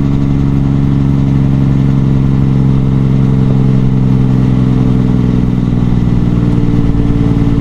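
Detroit Diesel 12.7-litre truck engine running steadily under load at constant revs.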